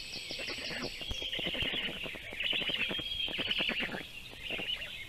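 Songbirds singing, with held high notes and runs of rapid rasping, chattering pulses overlapping.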